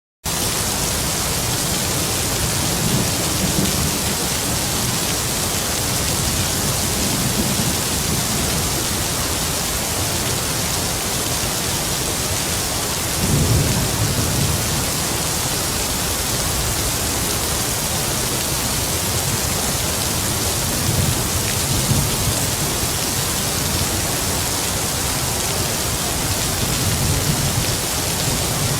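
Heavy rain falling in a steady dense hiss, starting abruptly, with distant thunder rumbling low several times; the loudest roll comes about halfway through.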